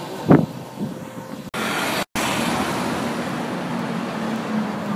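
Car traffic on a street: steady road and engine noise, with a short loud bang near the start and two abrupt breaks in the sound about a second and a half and two seconds in.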